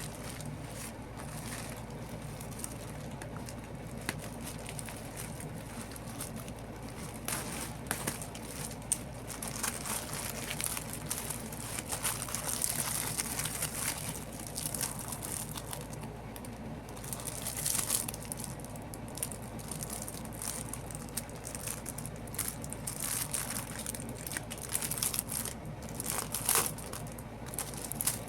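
Packaging being handled and opened by hand: irregular crinkling and rustling with scattered sharp clicks, over a steady low hum.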